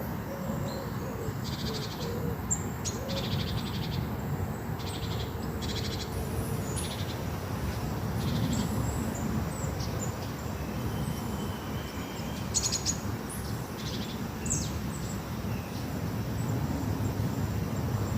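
Birds chirping: many short, high calls and brief trills come and go over a steady low rumble of outdoor background noise.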